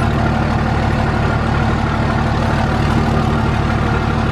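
Truck engine idling, a steady low drone that neither revs up nor dies down.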